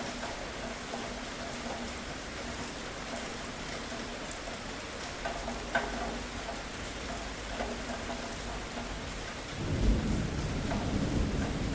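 Steady rain falling, with a few sharp drips. A low roll of thunder rumbles in near the end.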